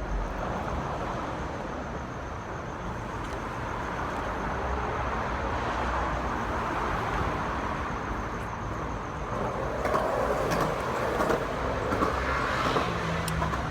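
Steady hum of passing road traffic, with a few short clicks and rustles near the end.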